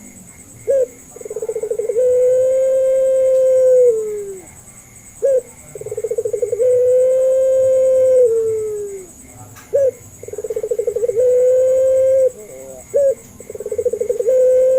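Puter pelung (Barbary dove) cooing in repeated phrases: each a short note, a rapid rolling trill, then a long held coo that drops in pitch at its end. Three full phrases, about every four and a half seconds, with a fourth starting near the end.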